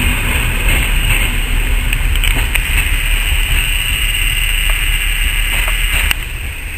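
Freight train of loaded Eaos open wagons rolling past and away on the track: a steady rumble and rail noise with a few light clicks. The noise drops sharply about six seconds in.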